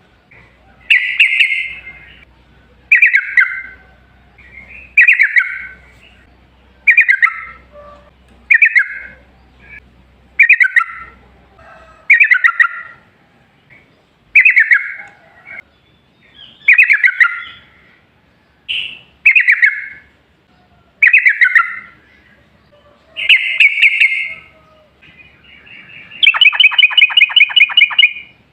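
Yellow-vented bulbul (trucukan) singing short, loud chattering phrases about every two seconds. Near the end it breaks into a long, fast rolling trill of rapid repeated notes.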